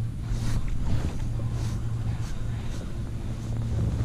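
Water splashing and sloshing against a kayak in short irregular bursts, over a steady low hum and some wind noise on the microphone.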